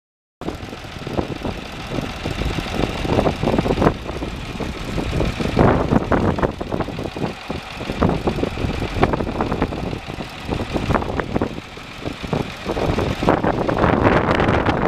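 A 1967 John Deere 4020 tractor's six-cylinder diesel engine running. The sound cuts in suddenly about half a second in.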